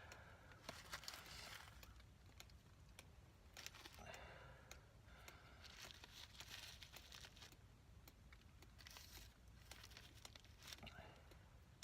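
Faint rustling and crinkling of a dry leaf as fine wood scrapings and tinder are gathered onto it, in several short spells with small clicks.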